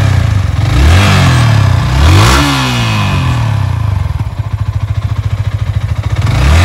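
Yamaha R15 V3's 155 cc single-cylinder engine idling, then revved twice in quick succession about a second in, each rev rising and falling back to a steady idle; it starts to rev again at the very end. The engine runs clean, with no bad noises, which the seller calls a fresh sound.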